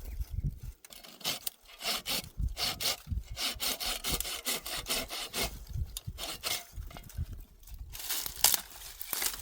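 Hand saw cutting through firewood, with steady back-and-forth strokes at about two a second.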